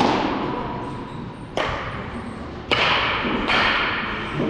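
Four sharp baseball impacts, spaced about a second apart, each followed by a short echo.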